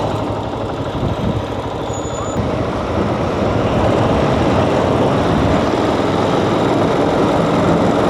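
Motorcycle running through congested city traffic, a steady engine and road noise that grows louder about three seconds in.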